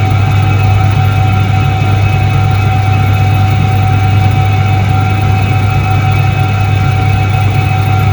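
1978 Soviet Iset-3 washing machine running: a steady, loud motor hum with a constant higher tone above it.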